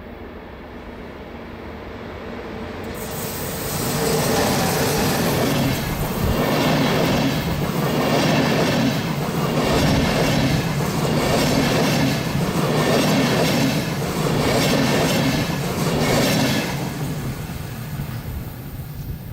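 A train passing close by. It approaches, then its wheels clatter over the rails in a rhythm of about one beat a second as the cars go past, and it fades away near the end.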